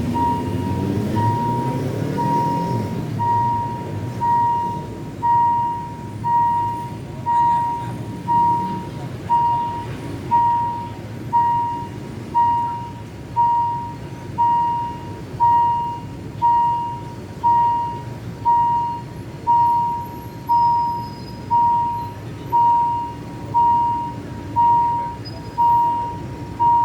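Level-crossing warning bell ringing a single electronic tone about once a second, over the low rumble of vehicles and the train at the crossing.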